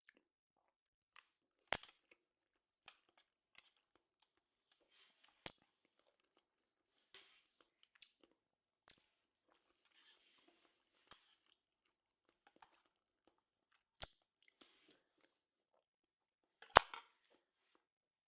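A person chewing and crunching food close to the microphone: soft, scattered crunches with a few sharp cracks, the loudest near the end.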